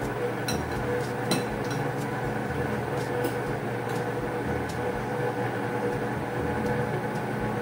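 Steady droning hum, with a few light clinks of a metal serving spoon against a ceramic soup bowl as soup is ladled out.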